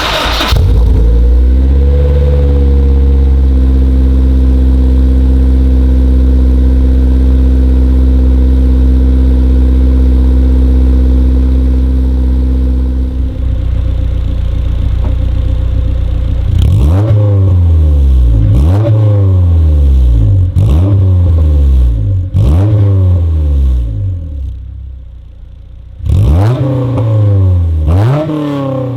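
Honda S2000's 2.2-litre four-cylinder engine, breathing through a straight-through 70mm test pipe in place of the catalytic converter and an HKS 75mm cat-back exhaust. It cold-starts, catching at once and holding a steady fast cold idle. From about halfway it is revved repeatedly, each blip rising quickly and dropping back, with a brief quieter spell before a last few revs.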